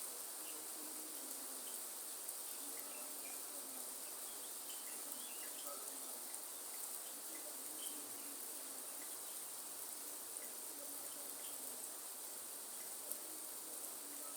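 Rainforest rain falling steadily, with a continuous high-pitched insect drone over it and scattered faint ticks of drips.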